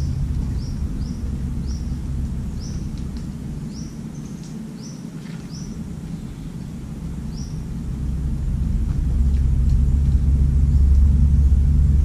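A bird calling with a short, high, rising chirp about twice a second, thinning out after the first six seconds. Under it runs a strong low rumble that fades in the middle and swells again to its loudest near the end.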